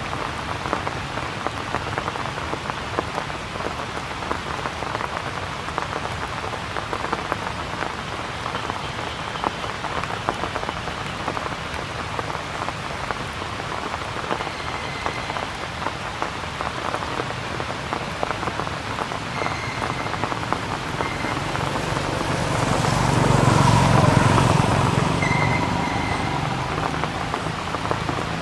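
Steady rain falling and pattering on surfaces, a dense hiss of drops. About 22 seconds in, a low rumble swells to a peak and fades again over a few seconds.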